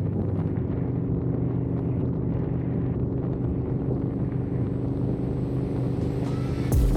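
Harley-Davidson V-twin motorcycle engine running at a steady cruising speed, a low even drone with road and wind noise under it.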